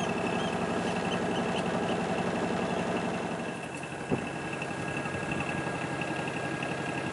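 A sailing yacht's inboard engine running steadily, with a single short knock about four seconds in.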